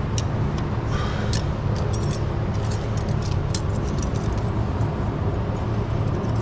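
Light metallic clicks and clinks of a socket and Allen wrench working a rocker-arm adjusting screw and locknut during a valve lash adjustment, over a steady low mechanical hum.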